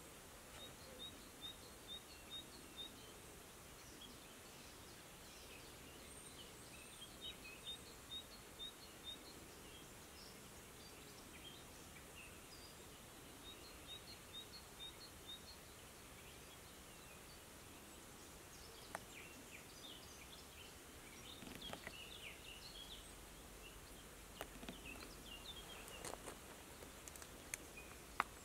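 Faint open-air ambience with a small bird singing a short phrase of five or six evenly spaced high notes, repeated three times, and scattered chirps from other birds. A few sharp clicks near the end.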